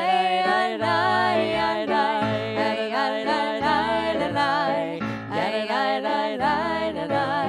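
A solo voice singing a liturgical melody with vibrato over sustained low instrumental accompaniment.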